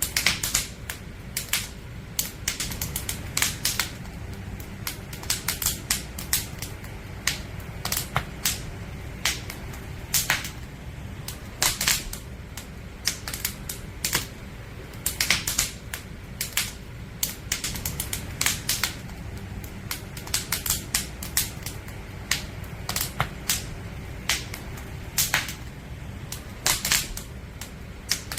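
Wood campfire burning, its logs crackling and popping in irregular sharp snaps, sometimes several a second, over a low steady rumble.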